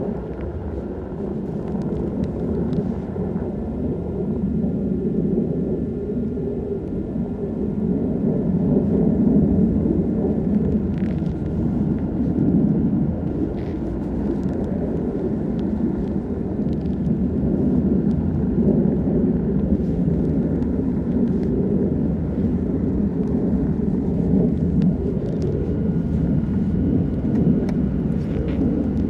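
Vehicle engine running steadily, a continuous low rumble with a faint steady whine above it.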